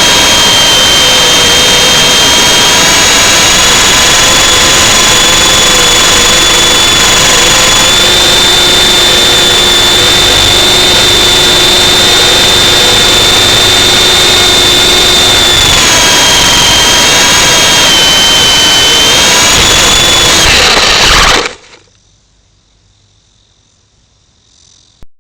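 Electric motor of a small radio-controlled aircraft, whining loudly at a high, fairly steady pitch that steps up and down a little a few times, flown in strong wind. The whine cuts off suddenly near the end, leaving only a faint hiss.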